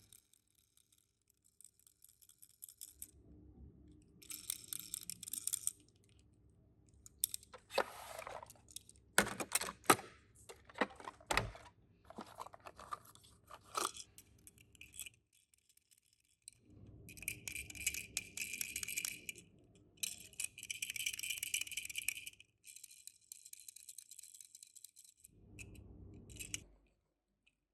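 Hands unpacking a Tomica die-cast minicar: crinkling plastic and rustling packaging in bursts of one to three seconds, with scattered sharp clicks and taps from about seven to fifteen seconds in.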